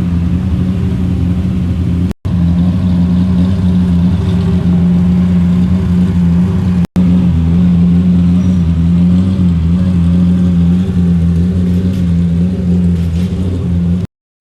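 Lamborghini Murciélago V12 engine running at a steady, low idle with only slight wavering, broken twice by brief gaps in the sound.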